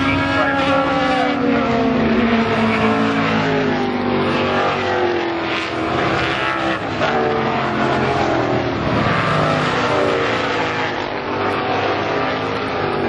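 Field of racing cars running hard together, several engines at once, their pitches rising and falling through the gears.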